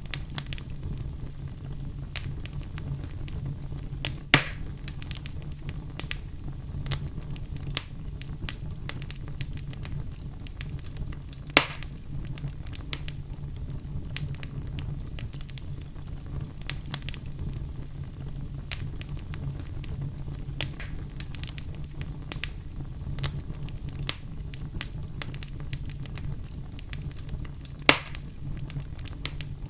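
Wood fire crackling in a fireplace: a steady low rumble of flame under frequent small crackles, with three louder pops, about 4 s in, midway and near the end.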